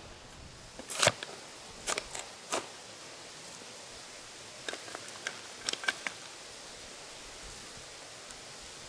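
Several short, sharp knocks and clicks at irregular intervals, in small clusters, over a steady hiss.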